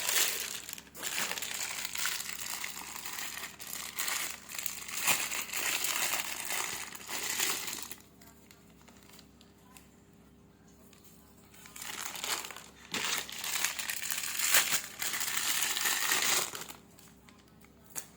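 Packaging crinkling and rustling as a product is unwrapped, in two long spells with a quieter gap of about four seconds between.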